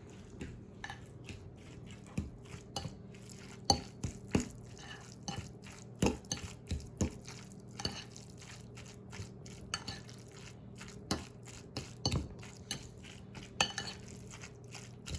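A utensil clinking and scraping against a bowl in irregular taps, as mayonnaise is stirred into shredded chicken.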